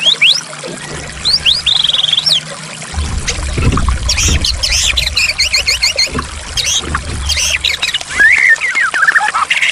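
White-rumped shama (murai batu) singing a varied string of rising whistles, quick repeated trills and chattering notes over a steady trickle of running water.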